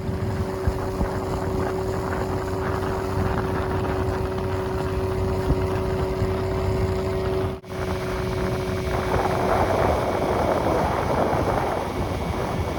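Boat motor running steadily under way, with wind rushing over the microphone. A brief drop-out comes about seven and a half seconds in, and the wind and water noise grows heavier near the end.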